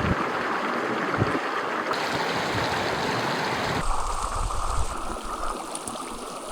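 Steady rushing hiss of a mountain stream. About four seconds in it changes abruptly to a lower, rumbling rush with gusts of wind on the microphone.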